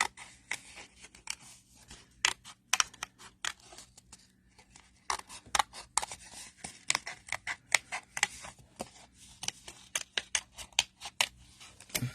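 Small fine-tipped snippers cutting paper: many quick, irregular snips as a shape is fussy-cut, with a short pause about four seconds in.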